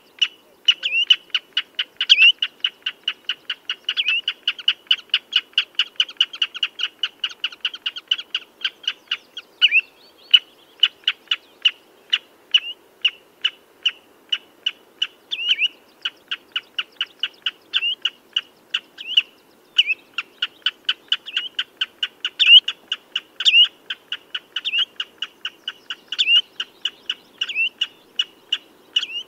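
Common redshank calling: a fast, unbroken run of short, sharp piping notes, about four a second, with a louder down-slurred note standing out every second or so.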